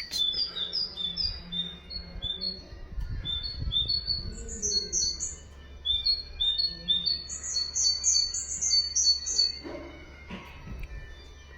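Songbird, the 'haddad' bird, singing a high two-note phrase over and over, about three times a second. In stretches, higher, sharper notes are laid over it.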